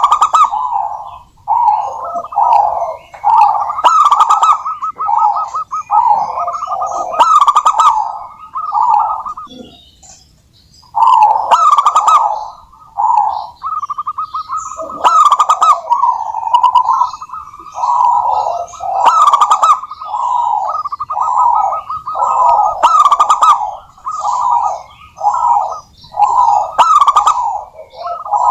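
Zebra dove (perkutut) cooing: rolling, repeated phrases, with a short break about ten seconds in and a longer held note a few seconds later.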